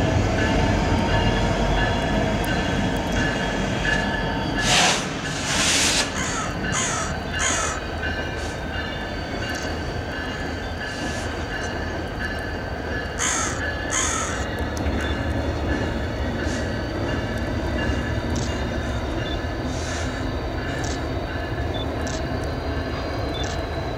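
BNSF diesel locomotives crossing a steel truss railroad bridge: a steady rumble of engines and wheels, with a faint high wheel squeal. Crows caw several times, loudest about five to seven seconds in and again around thirteen seconds.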